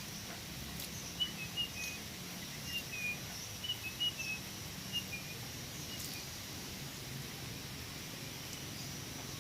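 Sooty-headed bulbul (kutilang) giving soft, short chirps, mostly in falling two-note pairs, for the first half, over a faint steady hiss with a thin high steady tone.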